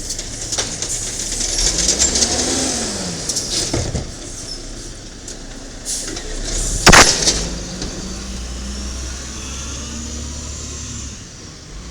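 Diesel garbage truck (1995 Peterbilt 310 with an automated side-loader body) running, its engine pitch rising and falling about two seconds in, with a single loud bang about seven seconds in.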